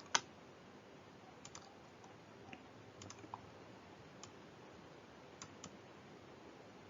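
Quiet room tone with scattered faint clicks, one sharper click just after the start and a dozen fainter ones at irregular intervals.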